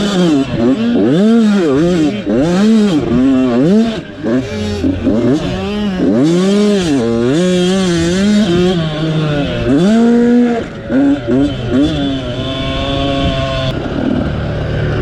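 Motocross motorcycle engine at close range, revving up and down over and over as the rider works the throttle around the track, its pitch rising and falling about once a second. It holds a steady pitch for a second or two near the end before changing again.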